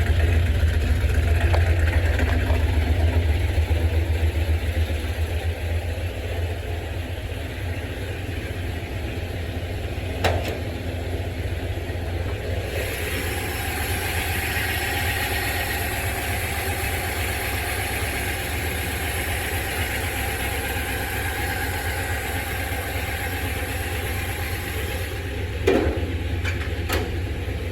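Car engine idling steadily with a low rumble after a cold start, freshly back from a week of sitting. About halfway through, a steady higher whine and hiss join in. There are a few short knocks, one near the middle and two near the end.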